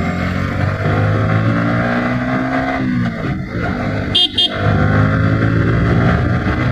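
Motorcycle engine running in city traffic, its note rising and falling with the throttle. About four seconds in, a vehicle horn gives two short high beeps.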